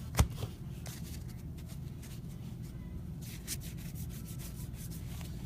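Trading cards sliding and rubbing against one another as a stack is flipped through by hand, with a sharp tap about a quarter second in and light scratchy strokes after it.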